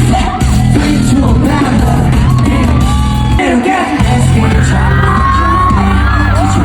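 Live K-pop concert music played loud over a hall sound system, with a heavy bass beat and voices singing and yelling over it. The bass drops out briefly about three and a half seconds in.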